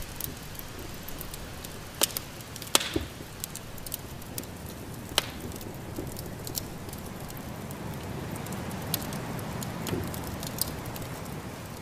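Wood fire crackling in a fireplace, with a handful of sharp pops over a steady low rumble; the loudest pops come about two and three seconds in and again about five seconds in.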